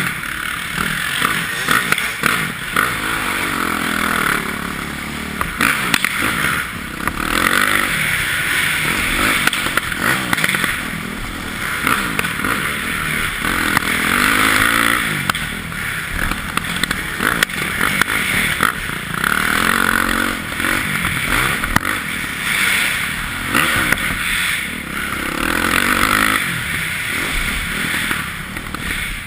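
Yamaha YZ450F single-cylinder four-stroke dirt bike engine revving up and falling back again and again as it is ridden around a motocross track. Rattles and knocks from the bike are mixed in.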